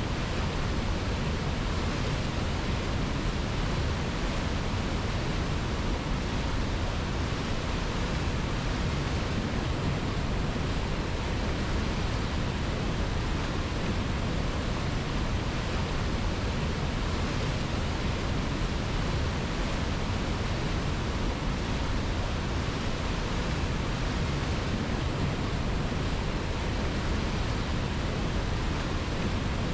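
River water rushing steadily: an even, unbroken hiss that does not change.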